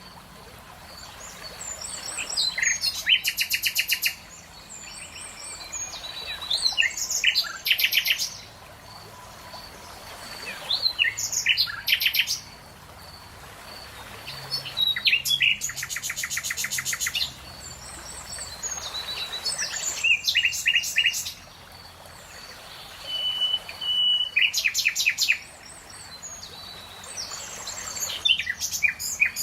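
Songbird singing: short, bright phrases that end in rapid trills, repeated about every four seconds.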